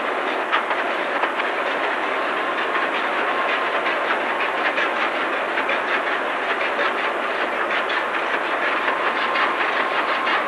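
Large two-stroke marine diesel engine running on the test bed: a steady, dense clatter of rapid knocks over a hiss, as the engine comes up to its full speed.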